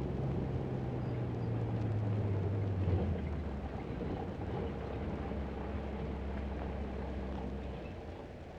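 A vehicle engine running steadily. Its pitch drops about two to three seconds in, and the sound fades near the end.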